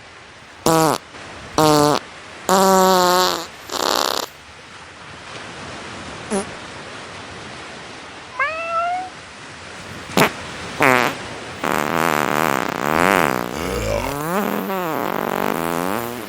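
Synthetic, AI-generated cat sounds: a quick run of short cat calls and fart noises in the first few seconds, a single rising meow near the middle, then a long wavering fart-like warble over the last few seconds, over a steady background hiss.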